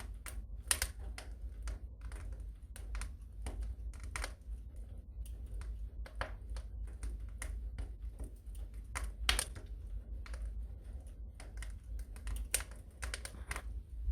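Wood fire crackling in a fireplace: irregular sharp pops and snaps at uneven intervals over a steady low rumble of the flames.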